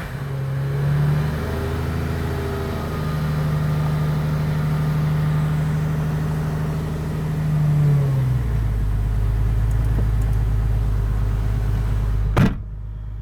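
Porsche Boxster flat-six running just after a cold start in about 5-degree weather, loud through a barely muffled exhaust. It holds a steady high idle, then about eight seconds in the pitch drops as the idle settles lower. A sharp knock comes near the end.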